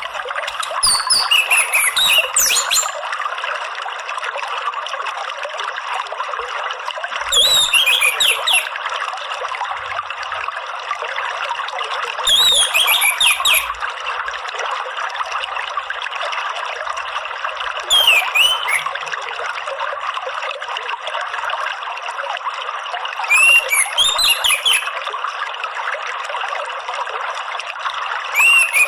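Orange-headed thrush singing short phrases of rapid whistles and glides, one roughly every five seconds, over a steady trickle of running water.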